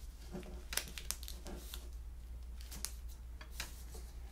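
Trading card boxes and packaging being handled on a table: a scattered run of soft clicks, taps and rustles of cardboard and plastic.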